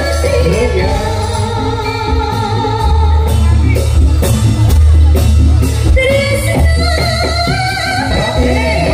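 Javanese gamelan music accompanying a jathilan dance: a singer's wavering melodic line over drums and gongs.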